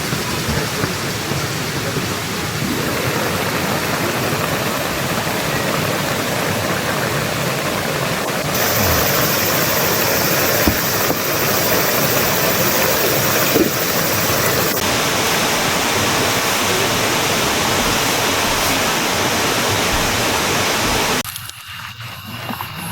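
Mountain valley stream, water rushing in a steady, loud wash. Its tone shifts abruptly twice, and the sound drops away sharply near the end.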